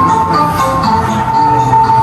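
Traditional Chơ Ro (Chrau) instrumental music: several held, ringing notes sound together over lower notes that change about every half second, with light repeated strokes on top.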